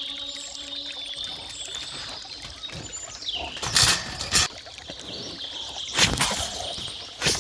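A wild boar thrashing, with four sudden loud, rough noises against birds calling in the background.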